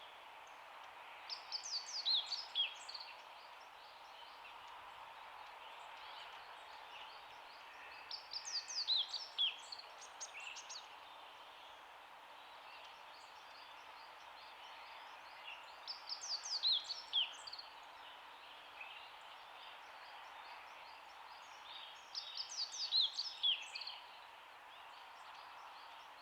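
A small songbird sings the same short phrase four times, about every seven seconds. Each phrase is a quick run of high, sharply falling notes, heard over a steady hiss of outdoor background noise.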